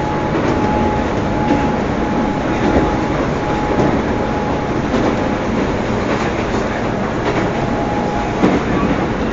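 Inside a Keisei line commuter train: steady running noise of wheels and motors on the track, with a thin steady high tone through most of it.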